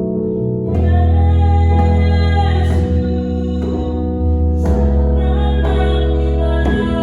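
Worship song played live: piano accompaniment under a singing voice, with a deep bass note coming in about a second in and a few hand-drum strikes from a djembe.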